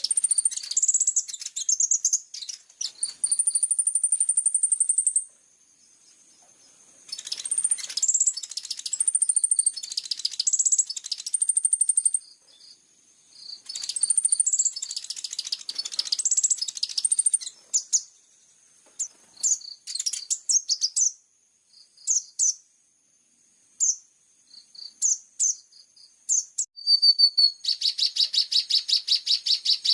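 Songbird song from a bird-training master recording: high-pitched bursts of rapid chirps and whistled notes with short pauses, then scattered single notes, and a fast, even trill starting near the end.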